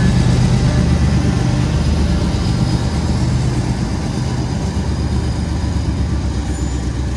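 Diesel locomotive engine running under load as the train pulls away, a steady low drone that slowly eases off.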